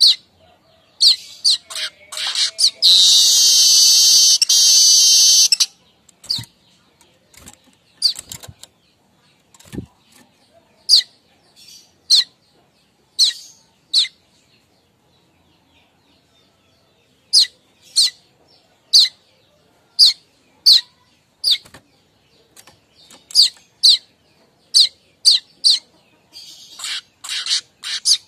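Manyar kembang weaver calling: sharp single chips repeated at irregular spacing, with a dense, buzzy chattering phrase lasting about three seconds early on the way in and a brief pause near the middle.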